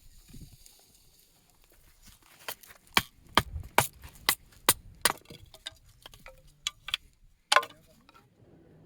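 A run of sharp knocks and clinks from hard objects, roughly two a second, with a louder one near the end.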